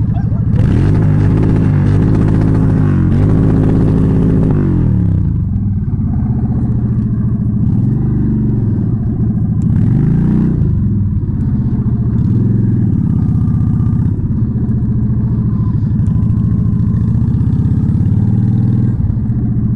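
Motorcycle engine revved in several surges, its pitch rising and falling, then running at a steadier, lower pitch with small blips.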